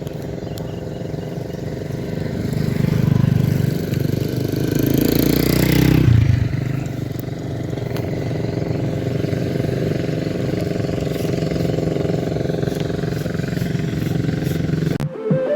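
A small engine running, revving up with its pitch climbing to a peak about six seconds in, then dropping back to a steady run. Music cuts in right at the end.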